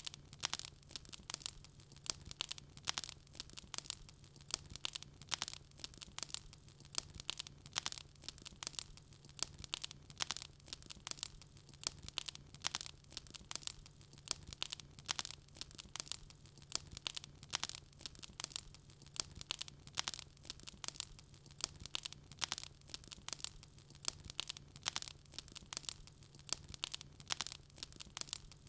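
Wood fire crackling, with a dense run of quick, irregular pops and snaps and a faint steady low hum underneath.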